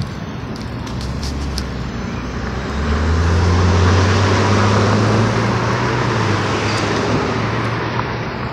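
A car driving past: its engine note and tyre noise swell to a peak about four seconds in, then fade away.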